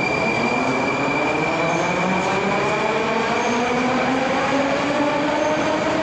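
Moscow Metro 81-740.4 'Rusich' train running, its traction drive whining in several tones that climb steadily in pitch as it accelerates, over the rumble of wheels on rail.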